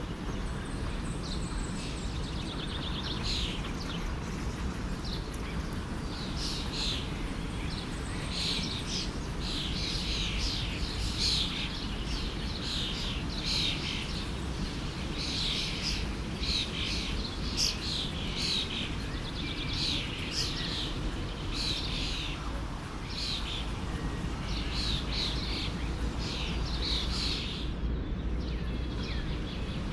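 Many small birds chirping and calling in quick, repeated notes over the steady rush of a flowing stream.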